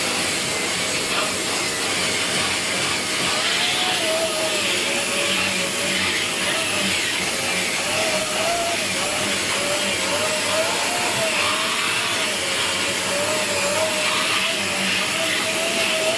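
Dyson Big Ball Animal (CY23) cylinder vacuum cleaner running steadily while cleaning carpeted stairs with its tangle-free turbo tool. The motor's whine wavers up and down in pitch as the tool is worked over the treads.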